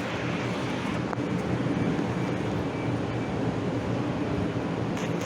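Steady rumble of a vehicle in motion, with a few faint steady tones in it.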